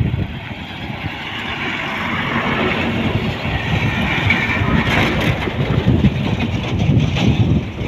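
Highway traffic: a heavy vehicle's engine and tyres rumble past, growing louder to a peak about five seconds in.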